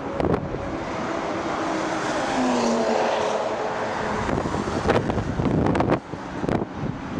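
Sports car's engine passing at speed on the circuit's main straight, its pitch falling as it goes by. Wind buffets the microphone in gusts near the end.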